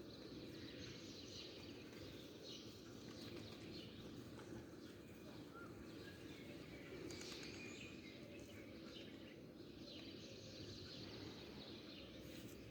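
Small birds chirping and twittering faintly, in short scattered calls, over a steady low background noise.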